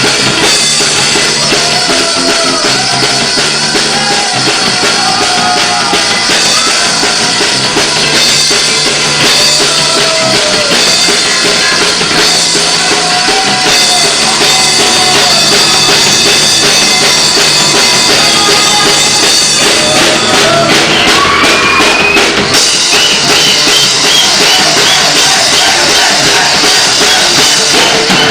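Rock band playing loud live music, driven by a full drum kit, with sliding melodic lines over it.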